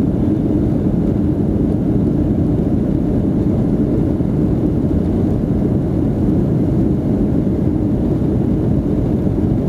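Steady low rumble of jet engines and rushing air heard inside the cabin of a Boeing 757-200 airliner.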